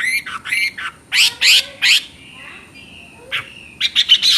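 Chinese hwamei (melodious laughingthrush) singing: a run of quick, varied, sweeping notes, a pause of about two seconds with a few faint whistled notes, then a fast burst of rapidly repeated notes near the end.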